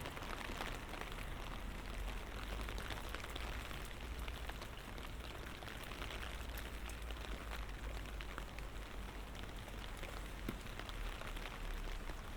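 Light rain falling steadily: an even hiss dense with the small ticks of individual drops, over a low rumble.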